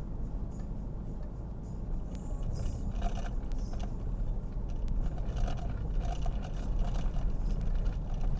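Car driving, heard from inside the cabin: a steady low road and engine rumble, with light rattles and knocks joining in from about three seconds in as it goes over a bumpy road.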